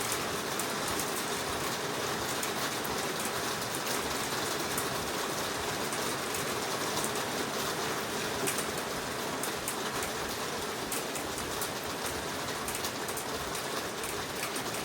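Heavy rain falling steadily in a forest: a dense, even wash of rain with many sharp, close drop hits throughout.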